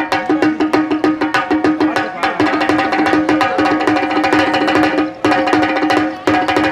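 Parai frame drum struck rapidly with sticks in a fast, even rhythm of sharp cracks, about seven or eight strokes a second, over a steady held bass tone that breaks off briefly a few times.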